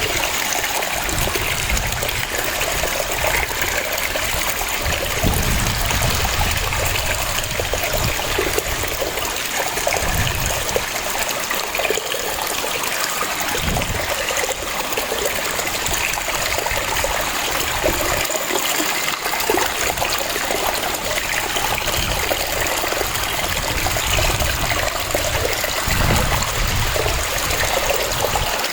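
Waterfall: water rushing and splashing steadily, with small surges in the low rumble now and then.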